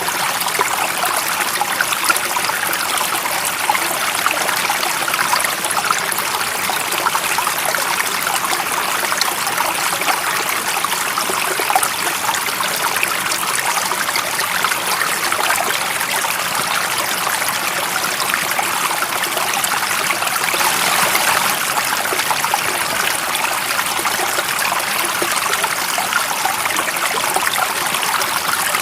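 Stream water running and trickling steadily, an even rushing hiss with many small splashes.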